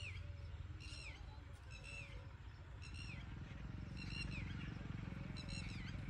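A bird calling from the tree, a short downward-sliding note repeated about once a second, six times, faint against a low steady rumble.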